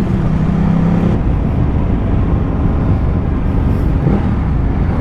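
Ducati Multistrada 1200's twin-cylinder engine running while riding, mixed with heavy wind rush on the onboard microphone. A steady engine note is clear at first and drops back into the wind noise about a second in.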